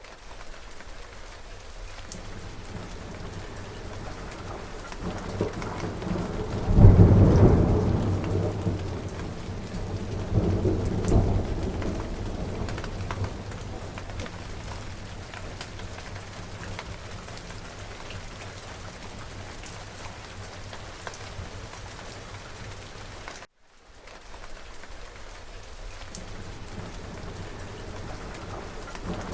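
Steady rain falling, with a loud thunderclap about seven seconds in that rolls on as a deep rumble, swells again a few seconds later and fades away. About two-thirds of the way through the sound cuts out for a split second, then the rain resumes.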